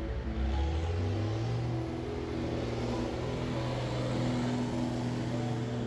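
Tractor engine pulling away, its note rising over the first couple of seconds and then holding steady as it runs past, with background music.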